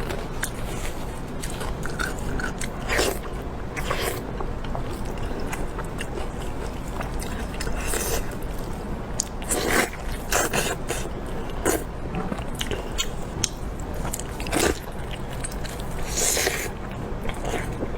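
A person eating close to the microphone: irregular bites and chewing, with a few louder crunching or smacking sounds.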